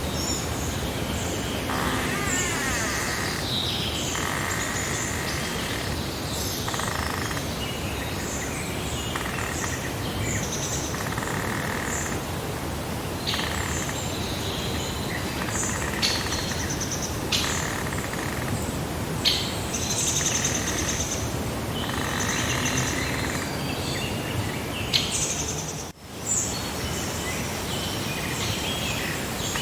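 Several songbirds singing and chirping in a summer meadow ambience, phrases overlapping one after another over a steady background hiss. The sound dips briefly and sharply near the end.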